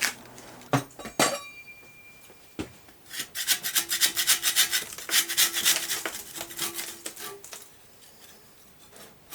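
Metal knocks, one ringing briefly, then a run of rapid back-and-forth scraping strokes, about four or five a second for several seconds: a scraper working old liquid-gasket sealant off the joint face of the turbine's casing.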